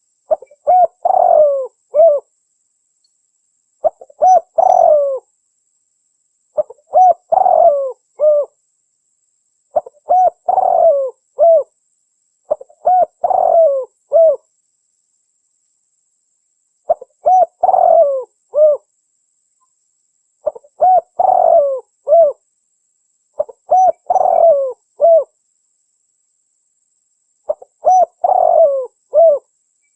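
Recorded spotted dove song used as a lure call to trap wild doves: nine cooing phrases, each a run of a few coos, coming about once every three seconds with dead silence between them.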